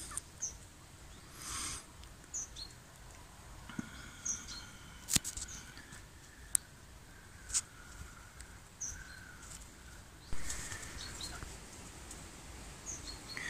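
Faint outdoor quiet with occasional short, high bird chirps and a few sharp clicks around the middle.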